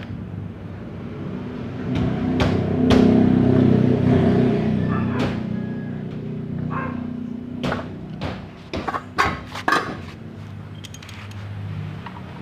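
A steady low engine drone that swells between two and five seconds in and then fades, under a run of sharp metallic clicks and knocks, most of them between eight and ten seconds in.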